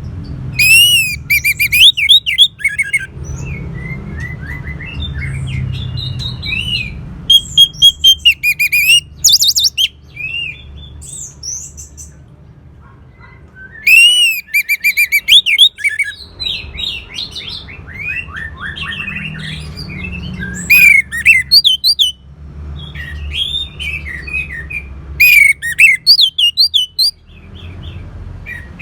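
Orange-headed thrush singing: loud bursts of rapid, varied whistled notes and trills, about five phrases a few seconds apart, over a steady low hum.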